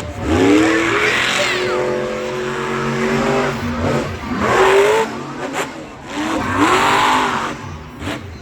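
Monster truck engines revving hard under acceleration in three surges, each one a rising pitch over a rough, noisy roar.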